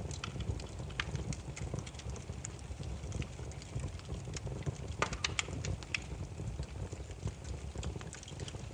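Burning firewood crackling: irregular sharp pops and snaps, a few louder ones about five seconds in, over a steady low rumble of the flames.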